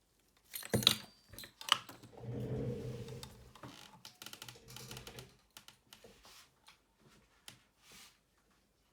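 Phone repair tools and small parts being handled: two sharp clicks about a second in, a stretch of rough rubbing and scraping, then scattered light ticks and taps of hard metal and plastic.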